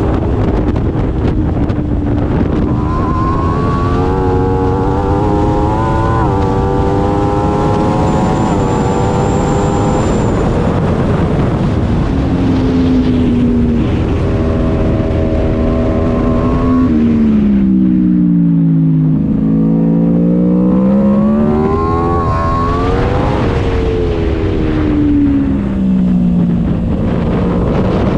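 Aprilia RSV4's V4 engine at full song: it pulls hard through several quick upshifts, holds high revs, then the note falls steeply as it drops down the gears for a corner before accelerating again. Wind rushes over the microphone throughout.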